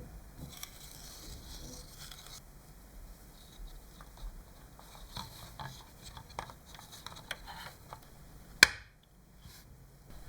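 Scattered light clicks and taps of small hard objects being handled, with one sharp, much louder click about eight and a half seconds in.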